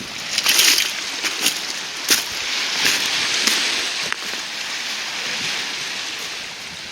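Seawater washing over a rocky, pebbly shore: a rushing hiss that swells and eases, with scattered clicks and crackles of stones and spray.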